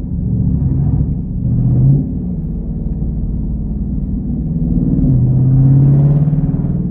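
Jeep Grand Cherokee Trackhawk's supercharged 6.2-litre V8 running under acceleration while driving. The engine note rises and swells about two seconds in, falls back, then swells again near the end.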